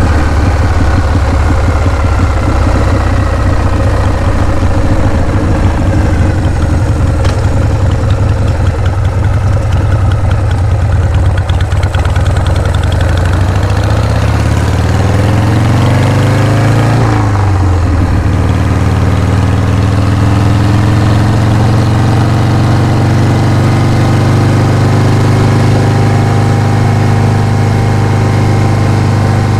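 Harley-Davidson Shovelhead V-twin motorcycle engine running at idle. About halfway through, its revs climb briefly and fall back quickly, then it settles into a steady idle.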